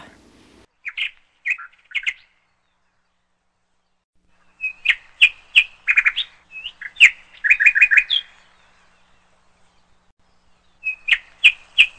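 A small bird chirping in short, quick, high chirps. There are three near the start, a longer run of rapid chirps in the middle, and another short run near the end, with silent gaps between.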